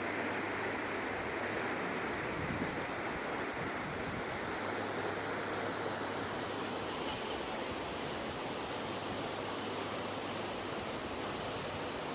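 Mountain river rushing, a steady even noise without breaks.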